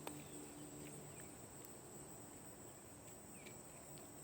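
Faint outdoor ambience: a steady high-pitched insect chorus, with a few faint clicks.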